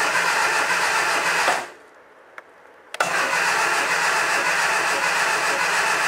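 Starter motor spinning over a Triumph Dolomite 1300 engine with the HT lead disconnected from the coil, so it turns without firing, to build oil pressure. It cranks, stops about a second and a half in, and after a short pause with a single click cranks again until it stops.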